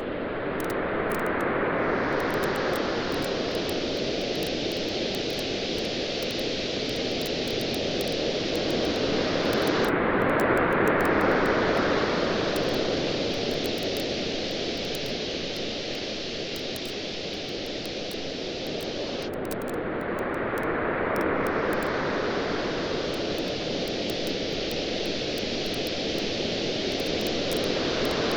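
Ocean waves washing onto a beach, swelling and receding in slow surges about every nine to ten seconds, with a wood bonfire crackling in many small sharp pops throughout.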